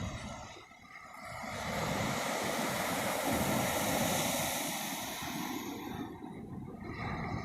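Ocean surf: a rushing wash of a wave that builds over about two seconds and then eases off, with wind rumbling on the microphone.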